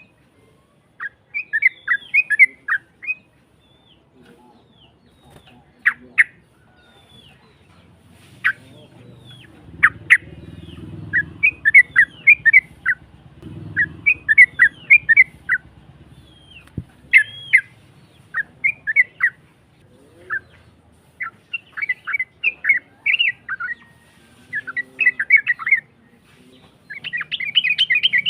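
Yellow-vented bulbul (trucukan) singing: short bubbly phrases of quick chirping notes, repeated over and over with brief pauses, in the rough-voiced style prized for lure recordings meant to make other trucukan answer.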